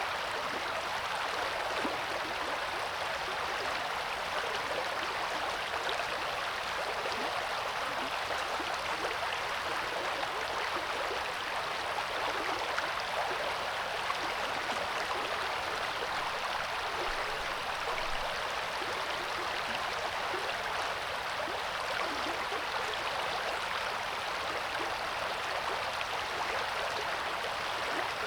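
Coeur d'Alene River flowing: a steady rush of running water with fine burbling.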